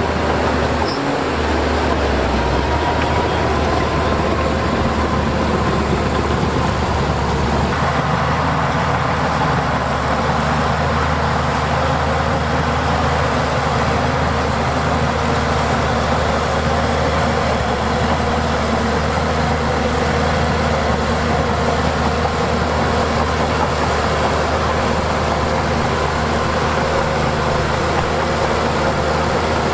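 Heavy diesel earthmoving machinery running steadily under work. Its engine note changes about eight seconds in.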